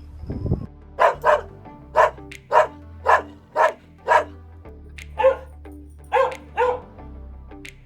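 A dog barking repeatedly: about a dozen short, sharp barks, several coming in quick pairs, over background music.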